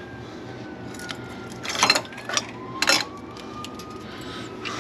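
Metal parts and tools clanking together in a diesel pickup's engine bay as the alternator and belt tensioner are worked back into place: three short clatters with light ticks between them. Under them a faint distant siren slowly falls and rises.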